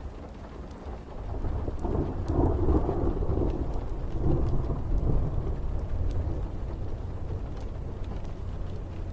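Thunderstorm ambience: a long roll of thunder swells about a second and a half in and slowly fades, over steady rain, with faint scattered crackles.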